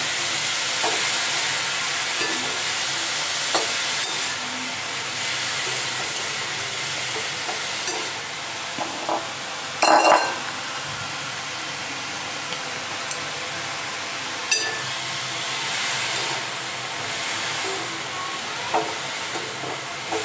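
Grated carrots sizzling in ghee in a steel kadhai on low heat while a wooden spatula stirs them, with small scraping clicks against the pan. There is one louder knock about halfway through.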